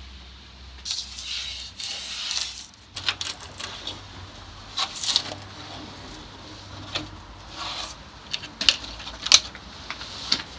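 Light metallic clinks, knocks and scrapes of hand work on a rusted steel van door: a scraping stretch about a second in, then scattered sharp clicks and knocks, the loudest near the end.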